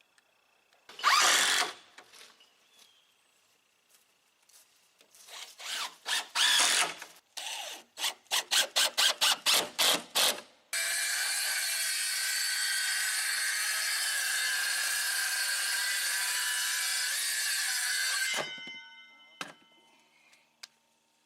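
Tool work: a few separate strokes, then a quick run of about ten strokes at roughly four a second. A power tool then runs steadily with a whine for about seven seconds and cuts off suddenly, followed by a couple of knocks.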